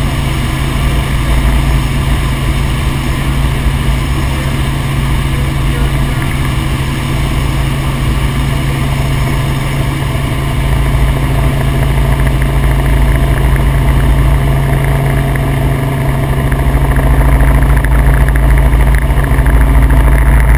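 Helicopter in flight, its engine and rotor making a steady drone with a strong low hum. It grows louder about halfway through and again near the end.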